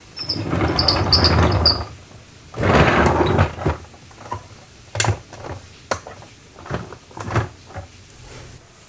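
Plastic and diecast toy vehicles being handled: two long scraping or rolling sounds, then several short sharp clicks and taps.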